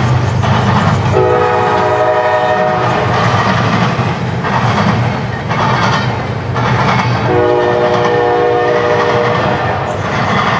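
Diesel freight locomotive horn sounding two long blasts of about two seconds each, over the steady low rumble of the train.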